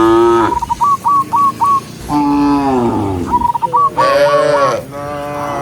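Several cows mooing, four calls that each slide down in pitch, at the start, about two seconds in, and twice near the end. Between the moos a bird calls in quick runs of short, repeated notes.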